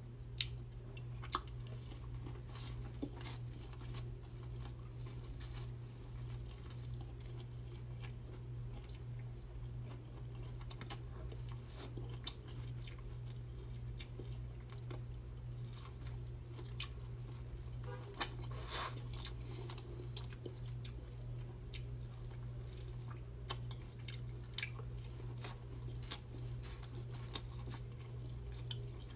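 Close-miked chewing and biting of seafood-boil food, with scattered sharp crunches and wet clicks, over a steady low hum.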